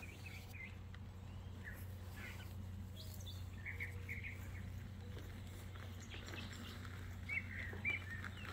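Small birds chirping in short, scattered calls over a steady low hum, with two louder chirps near the end.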